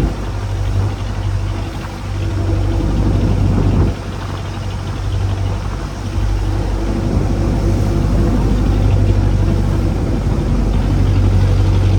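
Small fishing boat's engine running steadily with a low hum, over the rush of wind and water; it grows louder about six and a half seconds in.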